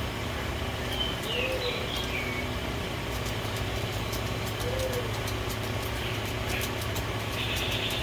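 A steady low hum of background machinery or traffic runs throughout. Over it, birds give a few brief high chirps and two soft, low, arched coo-like calls, one about a second and a half in and one about five seconds in.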